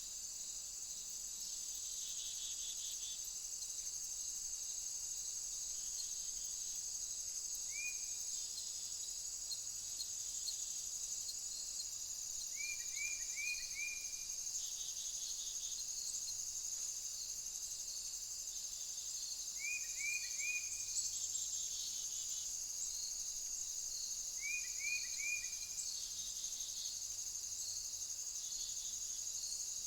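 Steady shrill chorus of crickets and other insects, pulsing slightly. About every five seconds a short run of three or four quick, high, hooked chirps cuts through.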